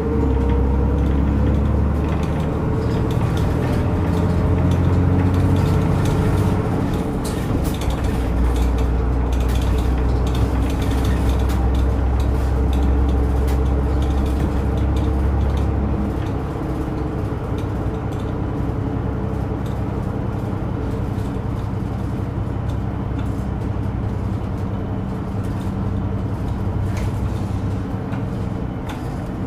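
Route bus running, heard from inside the cabin: the engine pulls with a heavy low drone and a rising note in the first seconds, then eases to a lighter, steadier run about halfway through, with small rattles throughout.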